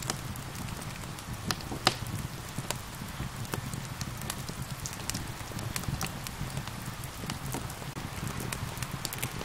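Wood fire crackling with scattered sharp pops over a steady patter of rain; one pop about two seconds in stands out as the loudest.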